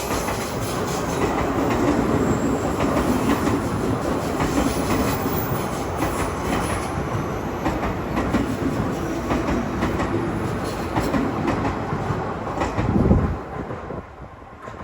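Odakyu Line electric train passing close by: a steady rumble of wheels on rail with repeated clacks over the rail joints, which ends abruptly about a second before the end.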